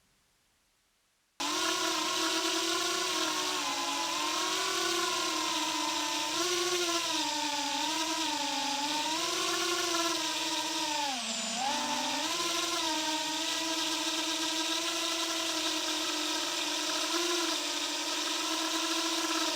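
A 2.5-inch FPV quadcopter's motors and propellers whine as they cut in abruptly about a second and a half in. The pitch rises and falls with throttle changes and drops sharply once for a moment before climbing back, over a steady hiss of prop wash.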